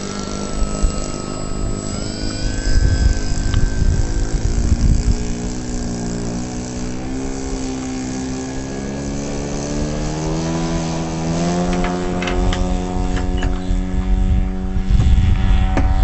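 Homemade RC airplane's motor and propeller running with a steady whine that wavers, then climbs in pitch about two-thirds of the way through as the throttle is opened and holds there. Gusts of low rumble come and go at times.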